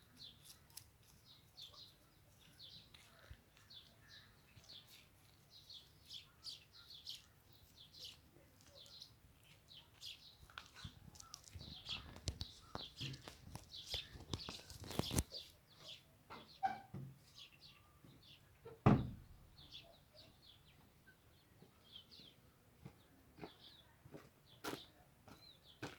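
Birds chirping over and over in short high notes. In the middle there are scattered clicks and knocks, and one louder thump about two-thirds of the way through.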